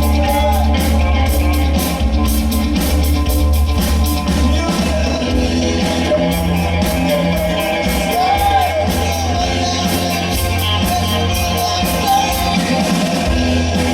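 Live rock band playing, with a singer over drums, bass and guitar, the cymbals keeping a steady beat.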